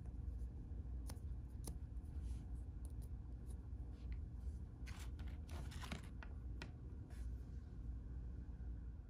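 Close-up handling of toy packaging: scattered sharp clicks and a short burst of crinkling about five seconds in, over a steady low room hum.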